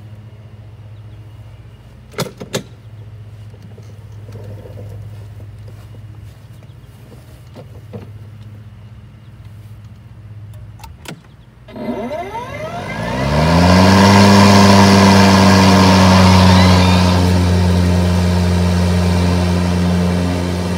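EGO 56-volt cordless Select Cut lawnmower starting: a few sharp clicks, then about twelve seconds in the electric motor and blades spin up with a quick rising whine and settle into a loud, steady run.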